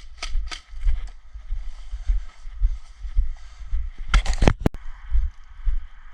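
Footsteps of a player moving through dry brush, about three a second, each with a low thump of body movement on the microphone. Near the end comes a quick cluster of sharper strokes and a single sharp click.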